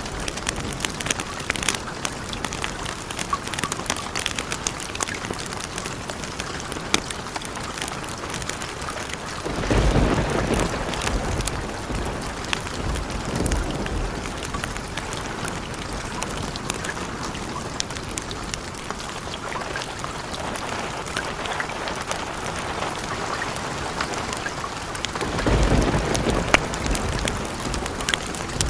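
Steady rain with scattered sharp ticks throughout, and two low rolls of thunder, one about ten seconds in and another near the end, each rumbling for a few seconds.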